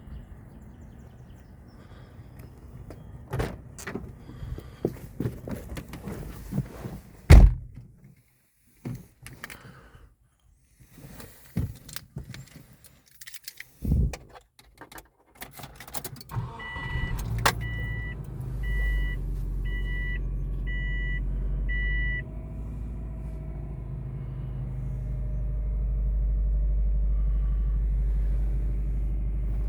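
Car door shutting with a loud thunk, keys jangling, and a warning chime beeping about six times. Then the 2004 Subaru Forester XT's turbocharged flat-four cold-starts about two-thirds of the way in and settles into a steady idle.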